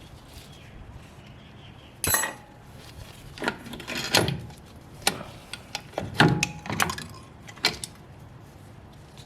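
Hand tools and steel drum-brake parts clanking and scraping. A sharp, ringing metal knock comes about two seconds in, then a run of irregular clanks and rattles that dies down near the end.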